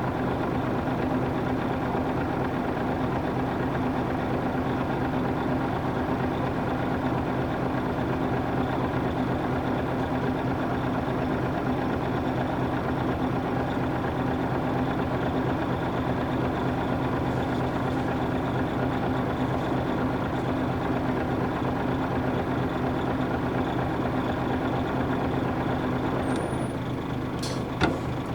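Nissan Diesel UA440 city bus's PF6 inline-six diesel engine running at a steady speed, with a couple of sharp clacks near the end.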